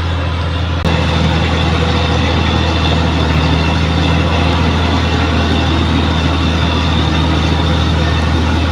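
Bulldozer's diesel engine running steadily with a deep, even drone, stepping up slightly in loudness about a second in.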